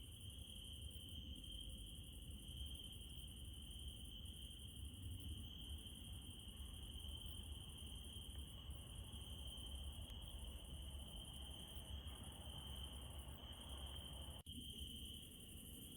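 Crickets chirring in a steady, continuous high trill over a faint low rumble, cutting out for an instant near the end.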